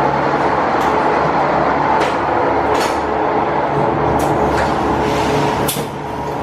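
Red Hen diesel railcar running with a steady engine hum, with a few short sharp clicks and knocks over it.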